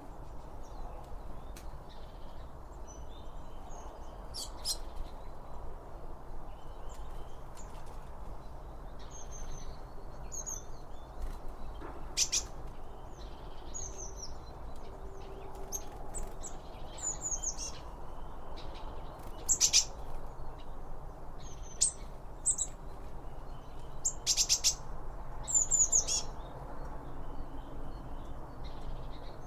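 Wild birds chirping and calling: many short, high chirps scattered throughout, with a few louder sharp calls in the second half, over a steady low background hiss.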